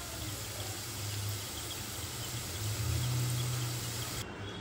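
Chopped vegetables, cashews and raisins sizzling in oil in a kadai: a steady frying hiss over a low hum. The sizzle cuts off shortly before the end.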